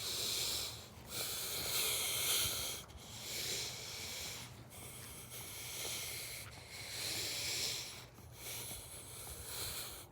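A person breathing close to the microphone, hissy breaths coming about every two seconds.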